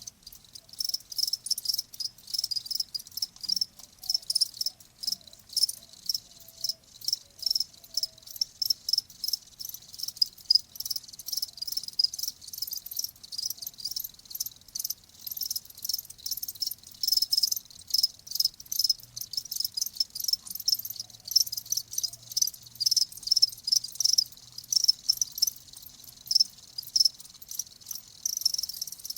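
Crickets chirping: a continuous run of short, high-pitched chirps in quick succession, several insects overlapping.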